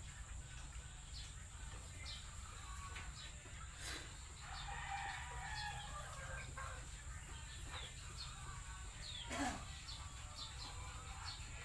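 Chickens calling and clucking, with a rooster crowing partway through. A sharp knock about nine seconds in is the loudest moment.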